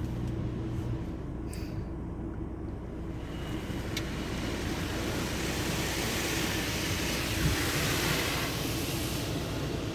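Rinse water from a Belanger Cube car wash's sprayers hitting the car's doors and body, heard from inside the cabin. The hiss of spray builds up after about three seconds over a steady low hum.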